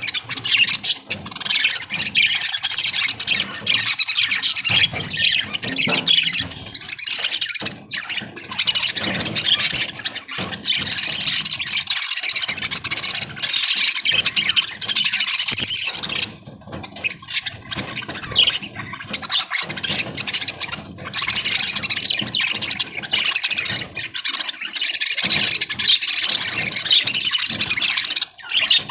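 A flock of budgerigars chattering: dense, high-pitched twittering, with a couple of brief lulls.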